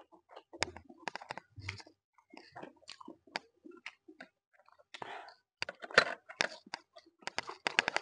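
Close-up mouth sounds of eating noodles by hand: wet chewing with many quick lip smacks and clicks, busier and louder in the second half.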